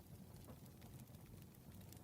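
Campfire crackling faintly, with scattered small pops over a low steady rumble.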